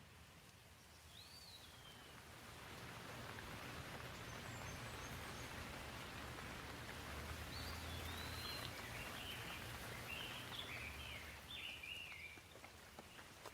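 Gentle rain falling, its patter swelling through the middle and easing off near the end, with a low rumble beneath. A bird chirps once about a second in and then gives a run of short chirps in the second half.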